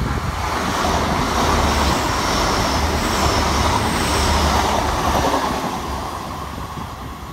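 A TransPennine Express Hitachi Class 802 bi-mode train passing along a station platform: a steady rush and rumble of wheels and engine that builds over the first second, holds, then fades away over the last couple of seconds, with a faint high whine mixed in partway through.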